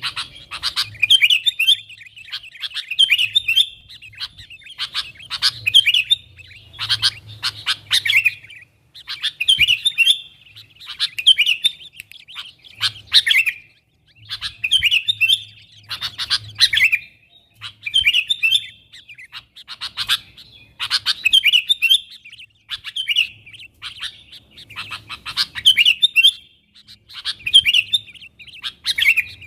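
Sooty-headed bulbul (kutilang) calling busily: bursts of bright, rapid chattering notes, one every second or two.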